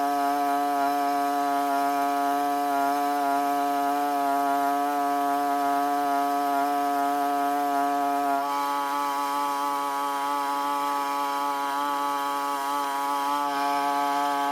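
Small two-stroke engine of a handheld power tool running steadily at high revs, with a slight drop in pitch about eight seconds in.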